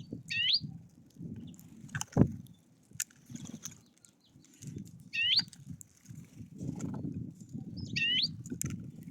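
A small songbird gives a short, upward-sweeping call three times, a few seconds apart. Knocks and an uneven low rumble come from the feeder in between, loudest near the end.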